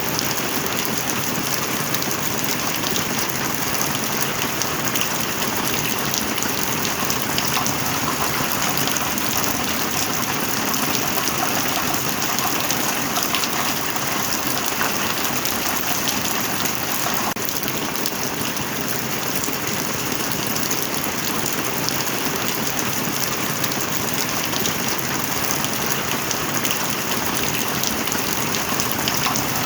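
Heavy rain falling steadily: a constant hiss from dense drops, with no let-up.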